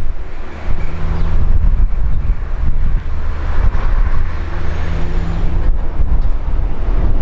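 Diesel passenger train running with a steady low engine drone that swells twice, under heavy wind rumble on the microphone.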